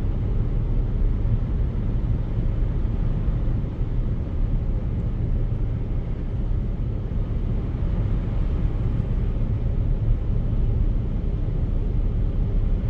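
Steady low rumble of a car driving, the road and engine noise heard inside the moving car.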